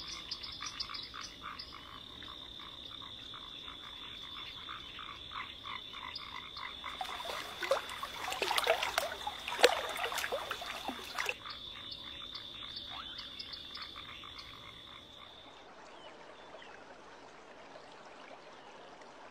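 Chorus of animal calls: rapid repeated croaking pulses over a steady high-pitched trill. It grows louder in the middle, and the trill stops about three-quarters of the way through, leaving a faint background.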